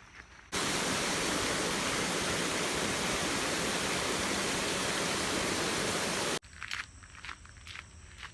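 Steady rush of creek water, loud and even, cutting in abruptly about half a second in and cutting out abruptly after about six seconds. Fainter footsteps on a dirt trail come before and after.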